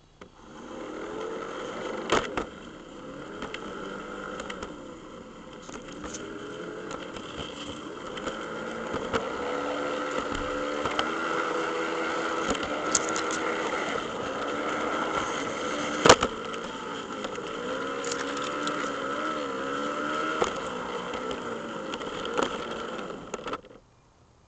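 Scale model train running along the track: a motor and gear whine that wavers in pitch, with scattered clicks from the wheels. It grows louder partway through, has one sharp click past the middle, and cuts off suddenly near the end.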